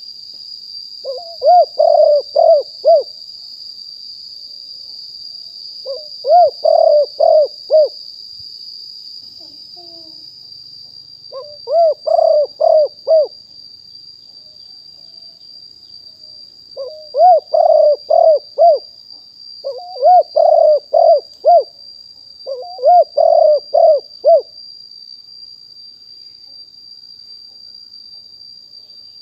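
Spotted dove cooing: six phrases of four or five quick rising-and-falling coos each, with gaps of one to five seconds between them. A steady high-pitched tone runs underneath throughout.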